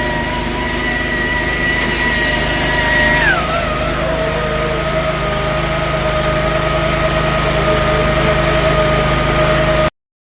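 Small Predator gas engine on a fertilizer conveyor, running steadily with a whine. About three seconds in the pitch drops as the engine slows, then it runs steadily at the lower speed. The sound cuts off abruptly near the end.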